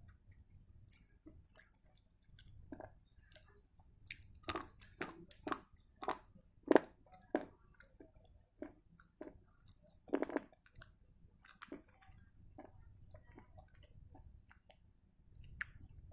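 Close-up crunching and chewing of dry edible clay ('Select pencil' clay) in the mouth: a run of sharp, brittle crunches, thickest and loudest from about four to eleven seconds in, then sparser, fainter chewing.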